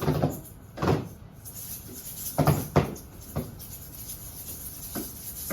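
Children striking hand drums, about six uneven beats spread across a few seconds.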